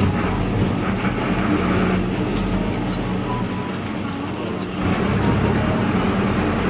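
Air-cooled Deutz F4L912 four-cylinder diesel of an Otokar M-2000 minibus running under way, heard from the driver's cab. It is noisy and gets louder about five seconds in. Music plays over it.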